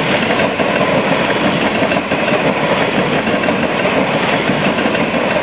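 BNSF coal train's cars rolling past: a steady, even noise of steel wheels running on the rails.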